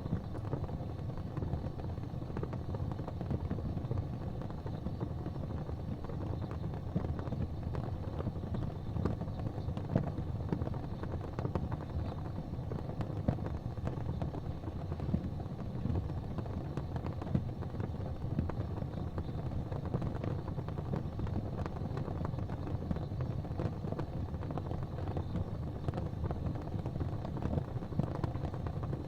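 Fire burning in a fireplace: a steady low rumble with frequent small crackles and pops scattered throughout.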